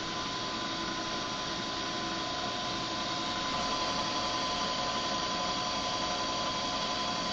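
Steady hum of running machinery: an even whir with a constant high whine, unchanging throughout.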